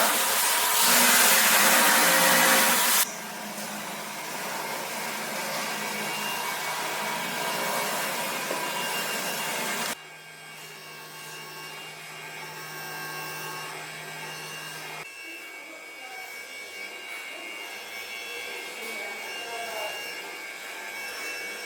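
Stone-working machines grinding and cutting stone. A loud, hissing grind for about three seconds gives way to quieter machine running, with a steady low motor hum for a few seconds in the middle. The sound changes abruptly twice.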